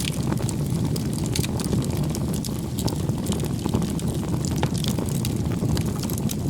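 Wood fire burning: a steady low rumble of the flames with frequent small crackles and pops of the burning firewood scattered throughout.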